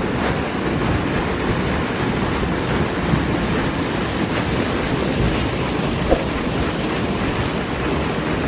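Artificial waterfall: water pouring over rocks and rushing steadily.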